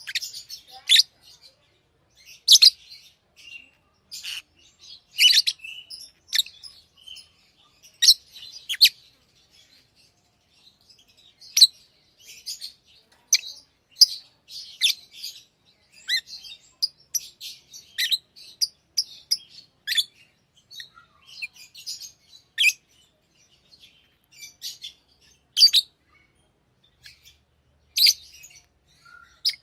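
Pet lovebirds chirping: short, high-pitched calls at an irregular pace, sometimes several close together, with brief pauses between.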